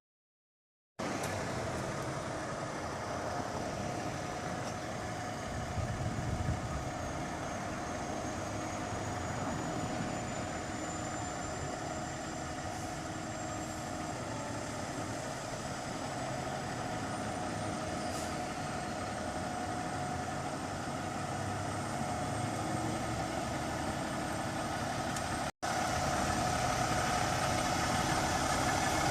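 A fire engine's diesel engine running steadily, with a short louder stretch about six seconds in and slightly louder running near the end.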